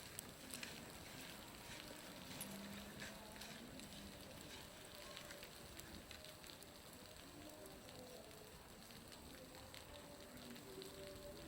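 Faint, irregular crackle of small ticks and pops over a soft hiss: water falling from a roof, which sounds like a bonfire crackling.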